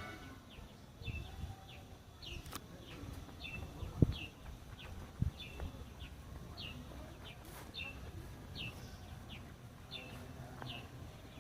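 A bird calling over and over, a short falling chirp about twice a second, with a few low thumps, the loudest about four seconds in.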